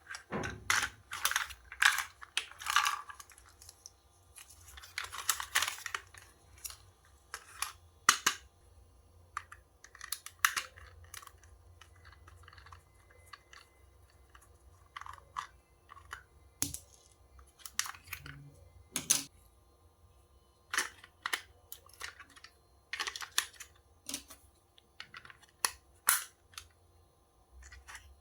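Handling noises: scattered sharp clicks and taps with short rustling or crinkling, busiest in the first few seconds and sparser after.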